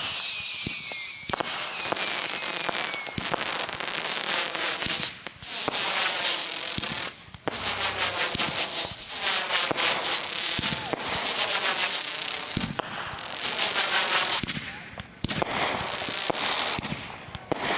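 Fireworks going off: several falling whistles in the first few seconds, then dense crackling and popping that runs on with brief lulls.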